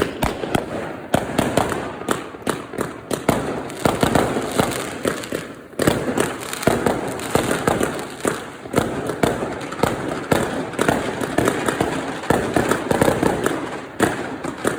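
Many fireworks and firecrackers going off at once, a dense, unbroken stream of sharp bangs and cracks. It eases briefly near the middle, then a sharp bang sets it going again.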